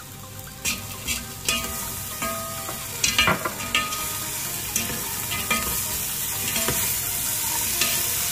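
A utensil knocking and scraping against a pot as frozen peas and diced carrots are stirred, with frying sizzle that grows louder after the first couple of seconds. The knocks come irregularly, the loudest cluster about three seconds in.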